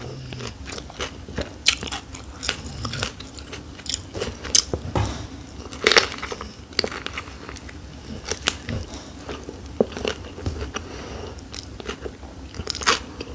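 Biting and chewing a shrimp summer roll with fresh lettuce: wet mouth clicks and smacks with crunching, and a louder bite about six seconds in.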